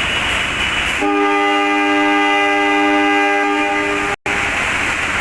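A diesel locomotive horn sounds one steady multi-tone blast about a second in, lasting some three seconds, over the rushing noise of the moving train. The sound cuts out for an instant near the end, then the train noise carries on.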